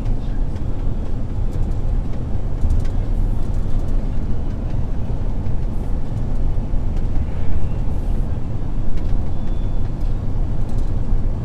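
MAN truck on the move: a steady low diesel engine rumble mixed with road noise.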